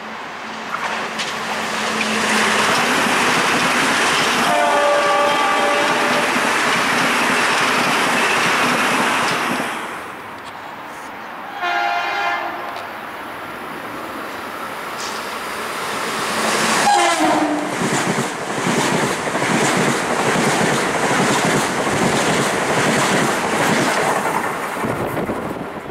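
Metro-North commuter trains passing through the station: the rumble and wheel noise of a train going by, with a multi-note horn sounded about five seconds in. Another short horn about twelve seconds in, then a brief horn falling in pitch as a second train rushes past.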